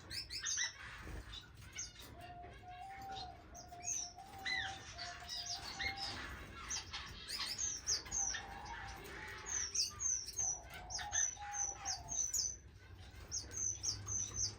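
Aviary of small finches and waxbills chirping: many short, high chirps and quick down-slurred notes overlapping from several birds. A faint steady tone comes and goes underneath.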